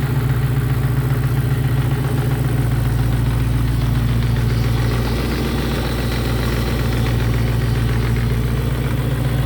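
A 4.2-litre V8 engine idling steadily. The owners trace a small noise in it to the belt tensioner.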